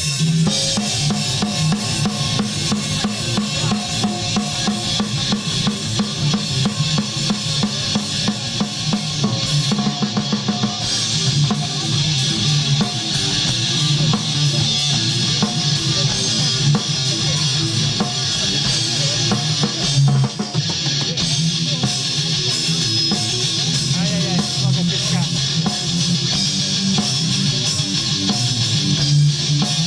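A rock band playing live, with the drum kit prominent: bass drum and snare beating fast under guitars.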